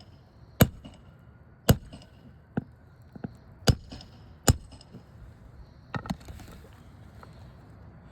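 Sharp metal hammer strikes, about seven at roughly one a second with a quick double near the end: a roof snake driving nails back into asphalt shingles.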